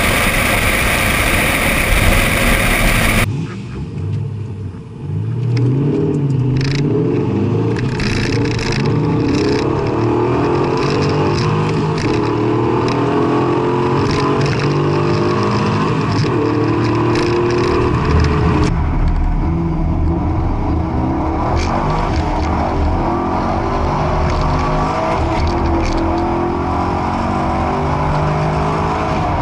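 Corvette Z06 V8 engines revving hard under acceleration, the pitch climbing and dropping back again and again as the cars run through the gears. The first few seconds are a loud, noisy rush before a cut to the engine sound.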